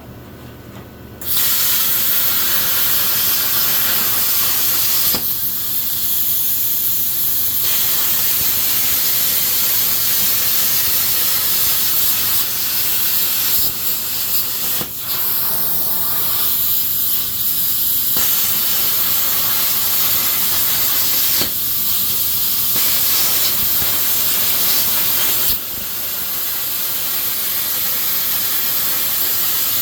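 Arccaptain Cut 50 plasma cutter torch running: a loud, steady hiss that starts about a second in, shifts in tone several times and drops in level near the end.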